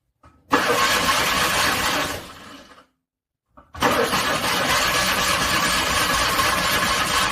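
Car engine being cranked over by the starter in two attempts, a short one and then a longer one, each stopping and dying away. This is a cold engine struggling to start in freezing weather.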